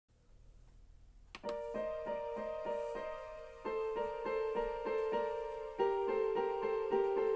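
Yamaha P-95 digital piano playing: after about a second of faint hiss and a click, it begins evenly repeated chords, about three a second, under held notes, with the harmony changing twice.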